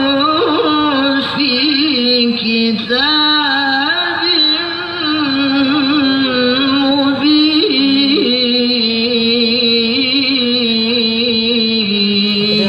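Quran recitation in melodic tilawah style: a single voice draws out long, wavering held notes with ornamented turns of pitch, pausing briefly for breath a few times.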